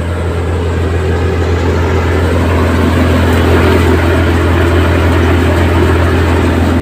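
Tractor diesel engine running steadily with a deep hum, growing a little louder over the first few seconds.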